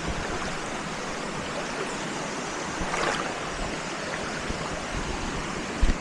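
Steady rushing of a waterfall pouring into a rock pool, with a few low bumps on the microphone, the sharpest just before the end.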